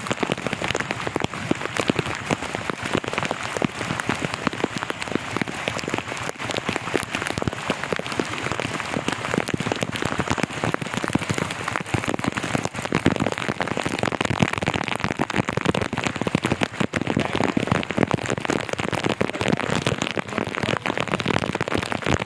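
Heavy rain falling steadily, a dense, even patter of countless drops striking close by.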